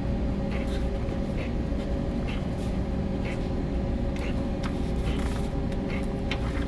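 Steady low drone of a bulk carrier's engine and machinery while the ship manoeuvres dead slow, with faint scattered ticks over it.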